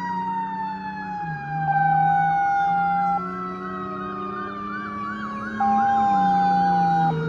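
Fire engines responding with sirens: a siren tone winding slowly down in pitch, a fast yelping electronic siren, and two long, loud air-horn blasts, one about a second and a half in and one near the end, over the low drone of the truck engines.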